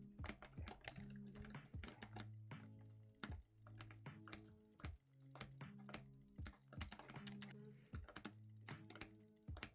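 A run of sharp, irregular clicks, about three a second, like keys or buttons being pressed, over low sustained tones.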